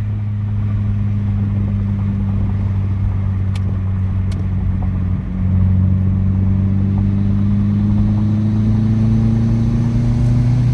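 Turbocharged Honda D17A2 four-cylinder engine running steadily while the car drives, its note getting louder about five seconds in and then climbing slowly in pitch toward the end. Two faint ticks come partway through.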